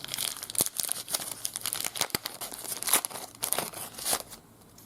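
A trading-card pack wrapper being torn open and crinkled by hand, a dense run of irregular crackles and sharp clicks that dies away near the end.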